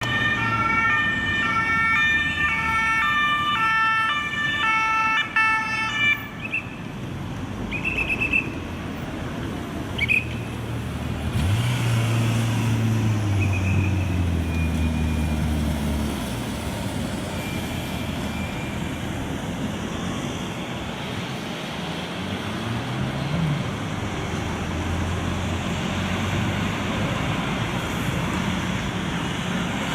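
French police two-tone siren alternating between two pitches, cutting off about six seconds in. Several short police whistle blasts follow over steady traffic noise, and a heavy engine pulls away in the middle.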